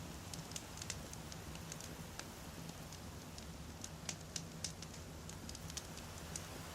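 Wood fire crackling: irregular sharp pops and snaps over a low steady rumble, with a cluster of louder pops about four seconds in.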